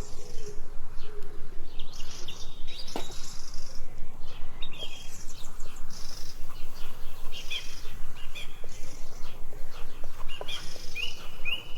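Small birds chirping with short, repeated calls, among scattered clicks.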